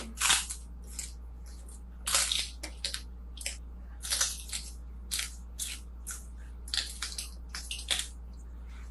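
Close-miked mukbang eating sounds: irregular crisp crunches and bites of food being chewed, one or two a second.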